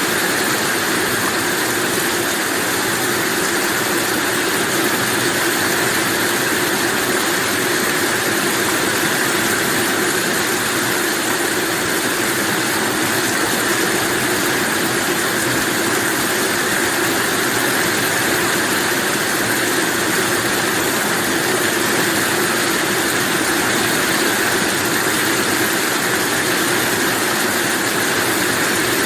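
Rain falling steadily, an even hiss that neither swells nor breaks.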